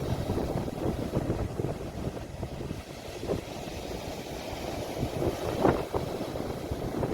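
Sea waves washing on the shore, a continuous rumbling wash, with wind buffeting the phone's microphone. A few brief, sharper surges stand out about five and a half seconds in.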